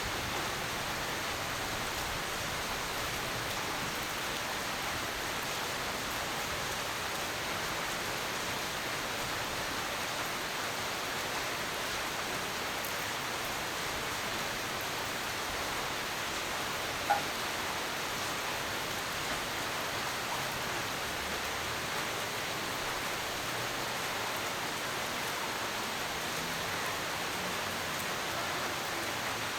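Steady rain falling, an even hiss with no thunder, and a single sharp drop or tap a little past halfway.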